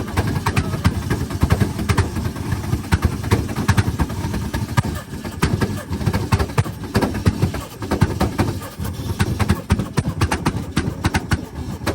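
Car engine revving hard with a rapid, irregular string of loud exhaust pops and crackles over a deep rumble.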